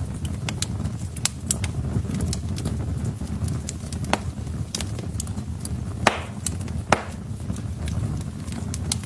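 Logs burning in a fireplace: a steady low rumble of flames with many sharp crackles, and two louder pops about six and seven seconds in.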